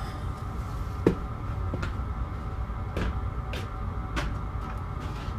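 Sharp metallic knocks and clinks of hand tools working at a big seized bolt on a steel backhoe bracket, about five in all, the loudest about a second in, over a steady low workshop hum.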